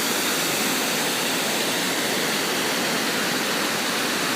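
River rapids rushing: a steady, even noise of fast water pouring over rocks.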